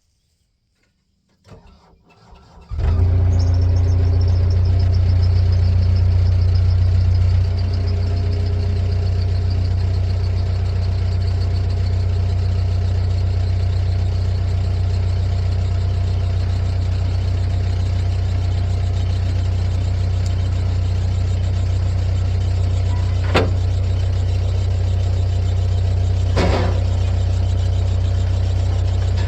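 An engine cranking briefly and starting about three seconds in, then running steadily at idle, easing back a little a few seconds later. Two short sharp knocks sound near the end.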